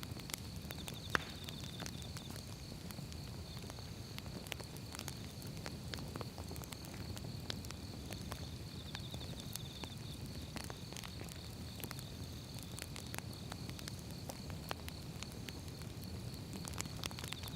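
Firewood burning: a steady low rumble of flames with irregular sharp crackles and pops, the loudest snap about a second in.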